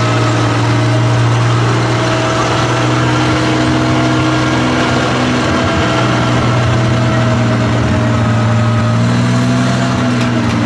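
Tiger tank's Maybach V12 petrol engine idling steadily after being started by its inertia starter.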